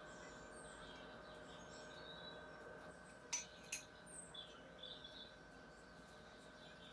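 Faint birdsong: scattered high chirps from several birds over a faint steady hum. Two sharp clicks, about half a second apart, come a little before the middle.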